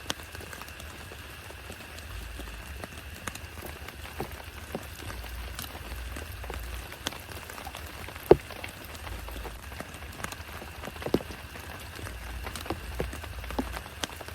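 Steady rain falling, with scattered louder drops striking close by, the sharpest about 8 seconds in.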